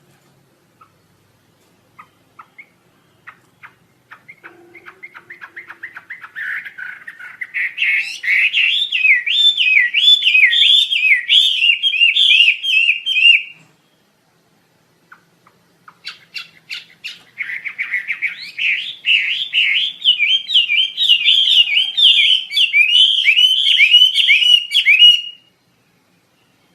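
Wambi Asia songbird singing two long bouts: each starts with spaced single ticks that speed up into a fast, rolling run of high, rising-and-falling warbled notes. The first bout stops abruptly about halfway through, and the second follows after a short pause.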